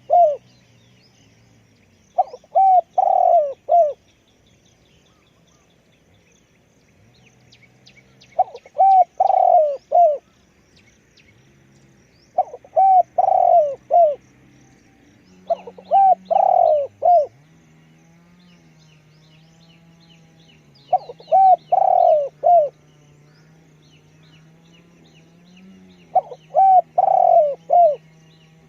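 Spotted dove cooing: a phrase of four or five short coos, repeated six times about every four to five seconds. Small birds chirp faintly in the background.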